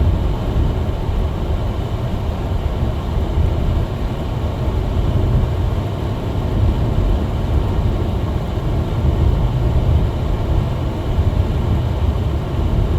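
Steady low rumble of a car driving on a snow-covered road, heard from inside the cabin: engine and tyre noise with no sudden changes.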